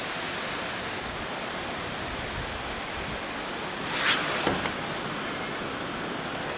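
Heavy rain pouring down, a steady dense downpour, with a brief louder swish about four seconds in.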